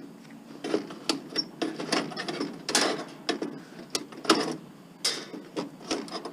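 Irregular clicks, knocks and rattles of small metal and plastic parts being handled and pried, as clipped-in fuses are worked loose from a fuse block.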